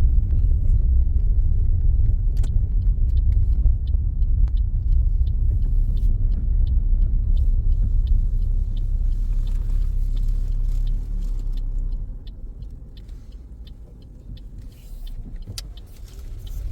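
Car cabin road and engine rumble while driving, with a turn indicator ticking at an even pace. The rumble falls away about twelve seconds in and picks up again near the end.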